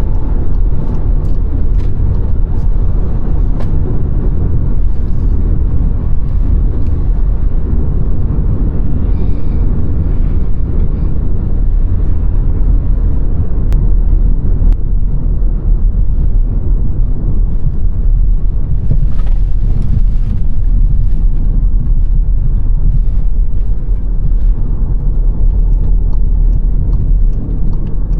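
Car driving along at a steady speed: a continuous low rumble of road and tyre noise with engine hum.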